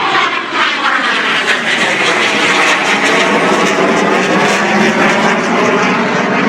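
A fixed-wing aircraft flying past at an air show, its engine noise loud and steady, with curved tones sweeping down in pitch early on as it passes.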